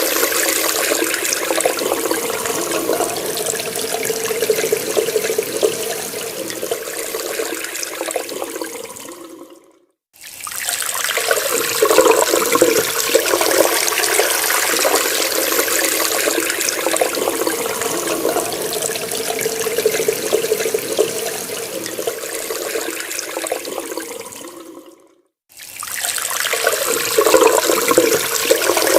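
Water running hard from a tap, a steady rushing splash. It fades out to silence twice, about ten seconds in and again near twenty-five seconds, and each time starts again abruptly, as a repeating loop.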